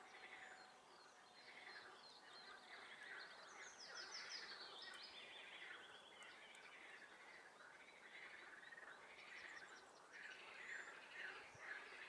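Faint chorus of frogs calling in a spring swamp, many overlapping pulsed calls, with songbirds chirping and trilling higher above them.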